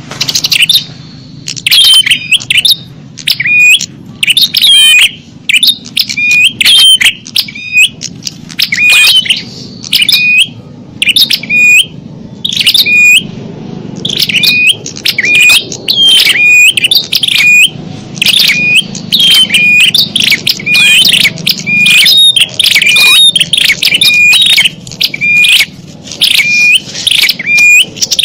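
Bird-lure recording of small songbird calls: loud, sharp chirps repeated rapidly at about two a second, each a quick swept note, with a short pause about halfway.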